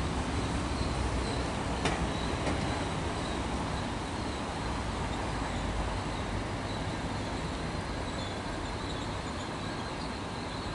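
Great Western Railway Intercity Express passenger train rolling past: a steady rumble of wheels on rail that eases slightly as the last carriage goes by, with a faint high tone and a single sharp click about two seconds in.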